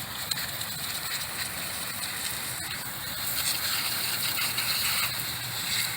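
Hose spray of water hitting an RC car, a steady hiss that swells a little past the middle.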